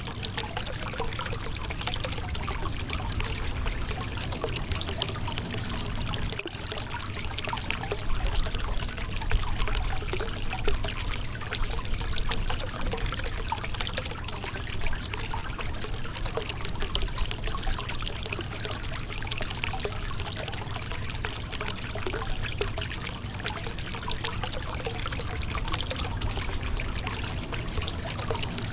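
Shallow river water running and splashing over a rocky bed, a steady dense trickling and burbling with small splashes throughout.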